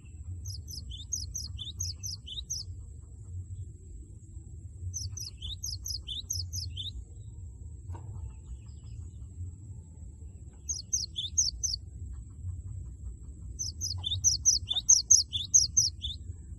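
Cinereous tit (gelatik batu) singing its loud 'wucit wucit' song: four bursts of quickly repeated high notes, the last one the loudest. A faint steady high-pitched tone and a low rumble run underneath.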